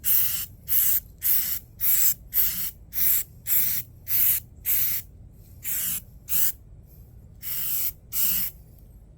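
Aerosol can of primer spraying in short bursts of hiss, about two a second, the gaps growing longer towards the end until the spraying stops.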